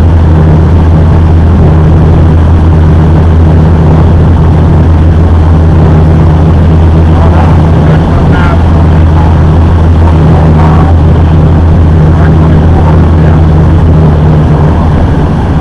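Tour boat's engine droning steadily, a loud, low, even hum with no change in pitch.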